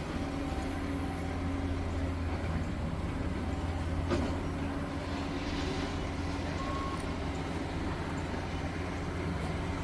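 Diesel engines of heavy construction equipment and dump trucks running steadily as a low drone, with a single knock about four seconds in.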